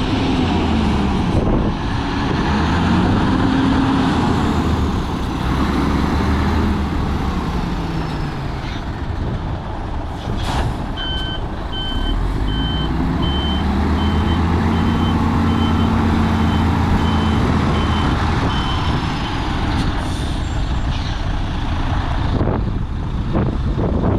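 Mercedes-Benz Actros 3335K dump truck's V6 diesel engine running under way, its pitch rising and falling as the truck speeds up and slows. About ten seconds in there is a short hiss, then the reversing alarm beeps steadily, about one and a half beeps a second, for some eight seconds while the engine pulls.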